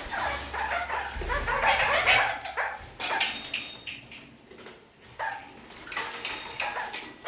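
Red-crowned parakeets (kakariki) chattering in quick, broken bursts, with a short lull a little past the middle before the chatter starts again.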